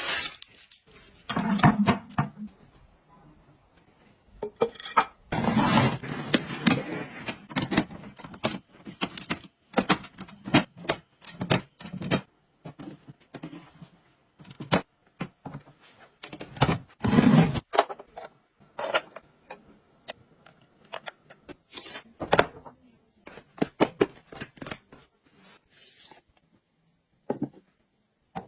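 Objects being handled and worked: a long run of sharp clicks, clatters and knocks, with a few longer scraping stretches.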